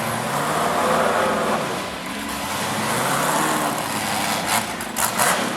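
Off-road hill-climb buggy's engine revving in rising and falling surges, with a few brief sharp noises near the end.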